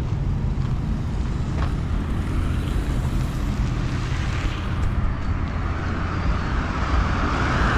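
Steady low rumble of a moving vehicle with wind on the microphone, and a hiss that swells near the end.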